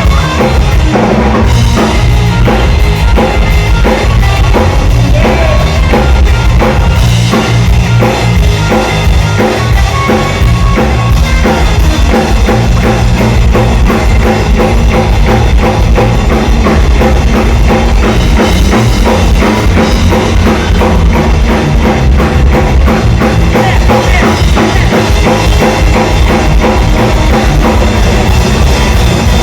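Loud rock-style band music with a steady drum-kit beat, driving bass drum and guitar, and no singing.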